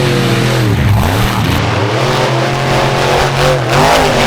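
Monster truck engine revving hard, its pitch rising and falling as the throttle is worked, with a steady low drone beneath.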